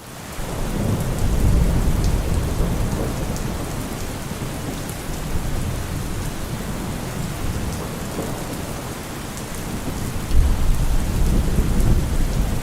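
Steady rain falling hard, with thunder rumbling low underneath. The sound fades in at the start, and the rumble swells in the first couple of seconds and again about ten seconds in.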